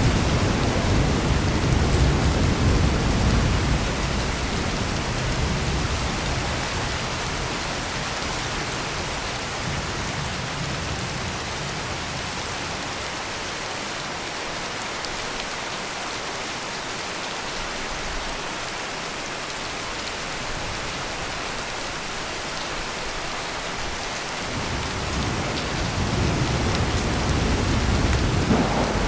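Heavy rain pouring steadily. A low roll of thunder fades out over the first few seconds, and another swells up near the end.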